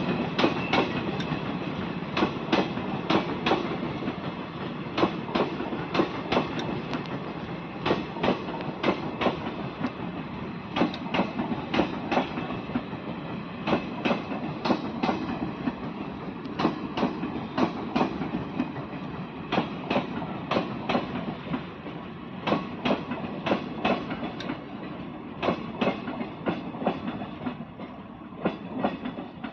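Train running along the track, its wheels clicking over the rail joints in a steady clickety-clack rhythm, fading towards the end.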